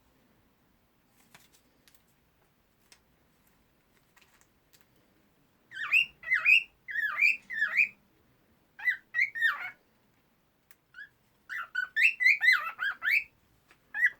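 Female cockatiel singing: a few faint clicks, then two bouts of quick whistled notes sliding up and down, with a single short note between them and a new phrase starting at the very end.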